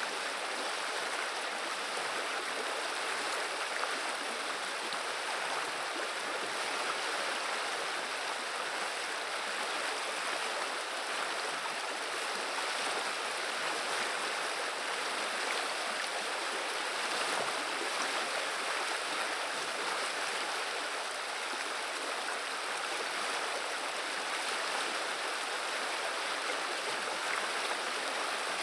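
Viliya river water running and babbling in a steady, unbroken flow.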